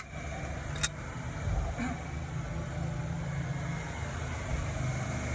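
Car engine idling steadily, with one sharp click about a second in.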